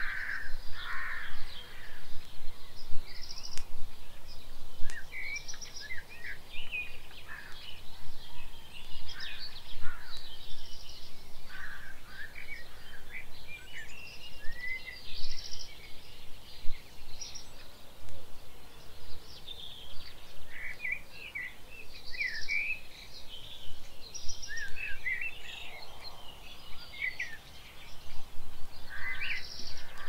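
Birdsong from several birds at once: an unbroken chorus of short chirps, trills and whistles.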